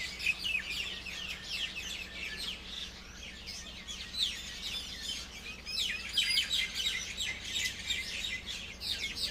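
A chorus of small birds chirping, many short quick down-sweeping chirps overlapping, busiest in the second half.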